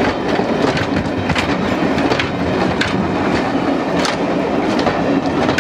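Railway passenger coaches rolling slowly past close by: a steady rumble of wheels on the track, with a sharp click of the wheels about every second.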